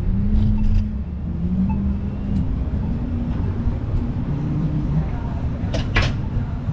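Low steady rumble of road traffic, with a single sharp click or knock about six seconds in.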